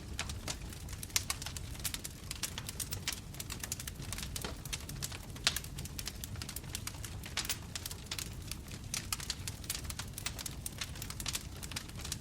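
Bonfire crackling: a dense run of sharp pops and snaps over a low, steady rumble of burning wood.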